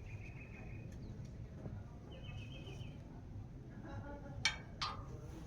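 Faint bird chirping in two short trills over low background noise, with two light clicks near the end.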